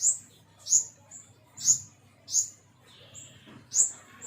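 A pentis kumbang flowerpecker calling: five sharp, very high notes, each dropping quickly in pitch, repeated about once a second, with shorter thin notes between them.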